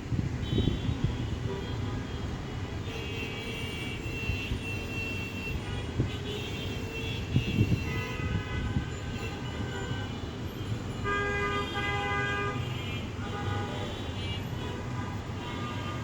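Steady traffic rumble with vehicle horns honking several times.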